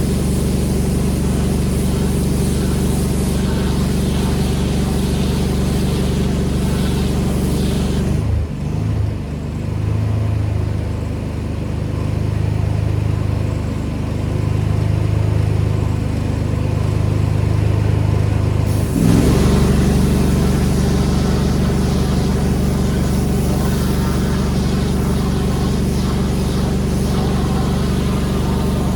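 Pressure washer running, its engine humming under the hiss of the high-pressure spray. About 8 seconds in the spray stops while the engine keeps running with a changed, lower hum, and about 19 seconds in the spray starts again.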